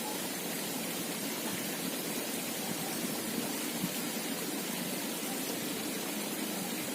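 Steady rush of flowing stream water, with a couple of faint ticks about halfway through.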